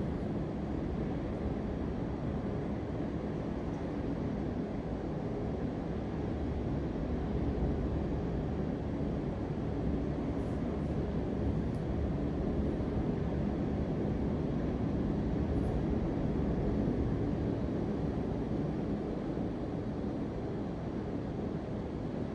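A steady low-pitched noise, even throughout, with no separate events or voices.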